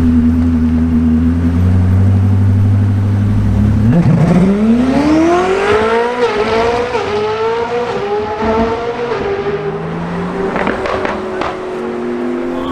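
Koenigsegg Jesko Attack's twin-turbo V8 running steadily at low revs, then about four seconds in accelerating hard, revs climbing with a quick shift partway through, the note levelling off and fading as the car pulls away. A few sharp pops near the end.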